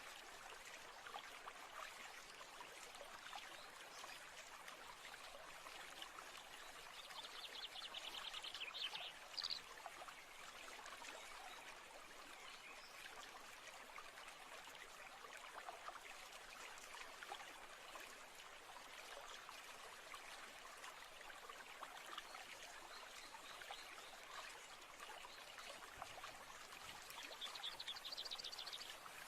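Faint nature ambience of running water trickling steadily. A bird's rapid high trill sounds twice, about seven seconds in and again near the end.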